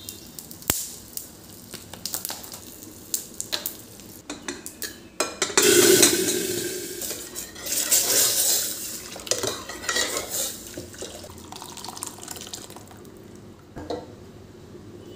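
Utensils clinking and scraping against cookware, then about halfway through a sudden loud sizzle as food goes into a hot pan, slowly dying down.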